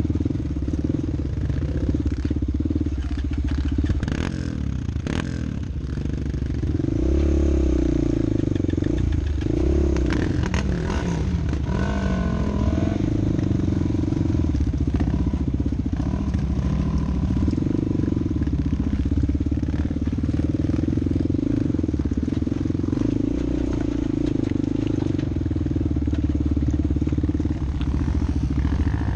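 Off-road vehicle engine running steadily, with a stretch of revving up and down in pitch in the middle.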